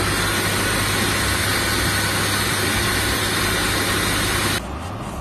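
Hairdryer blowing hot air onto a resin 3D print to soften the support contact points, a steady loud rushing hiss that stops suddenly near the end.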